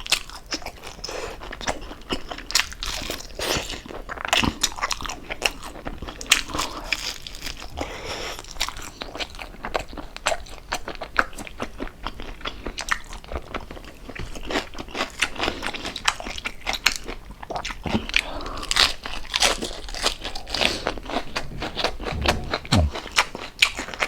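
Close-up crunching and chewing of crispy deep-fried pork jowl, with sharp irregular crackles from the crisp skin bite after bite.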